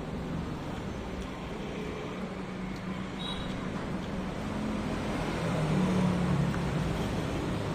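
Steady road traffic noise, with a vehicle passing louder about six seconds in.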